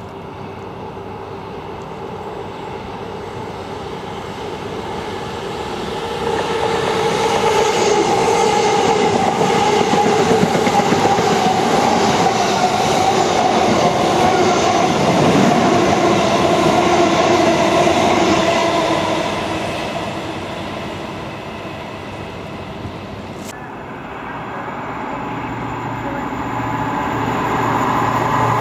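A passenger train running through the station close by: its noise builds over several seconds, stays loud for about ten seconds and then fades. There is a single sharp click about three quarters of the way through, and a second train approaches, getting louder near the end.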